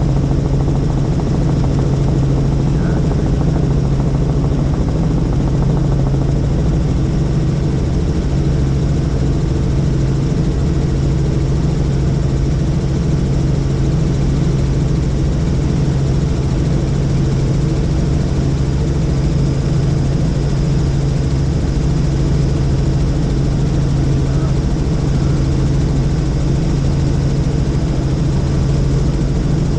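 Helicopter in flight: a steady, loud drone of rotor and engine with a strong, even low hum that does not change.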